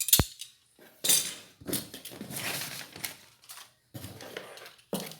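Ceiling fan mounting parts being handled: a sharp knock right at the start, then clinks and rustling as the pieces are picked up and moved.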